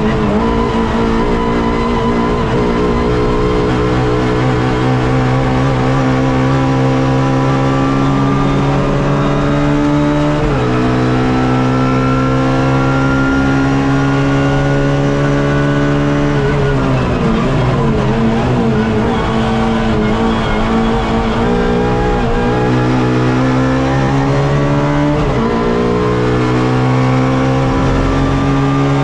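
Suzuki Swift race car's engine heard onboard, pulling long and steadily higher in revs under acceleration, with a quick drop in pitch at an upshift about ten seconds in. Just past halfway the revs fall away and blip down through the gears under braking, then climb again, with another upshift near the end.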